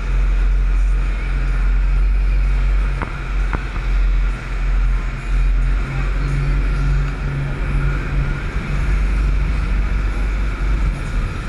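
Speedboat engines running with a deep, steady rumble, broken by two sharp clicks about three seconds in.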